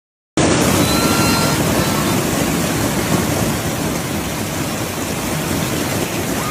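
Heavy hail coming down with rain, a loud, dense, even clatter that sets in suddenly just after the start and eases slightly over the seconds.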